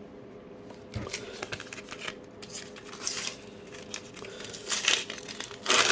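A sticker pack's wrapper being torn open and crinkled, with stickers rustling as they are handled. The rustling starts about a second in and is loudest near the end.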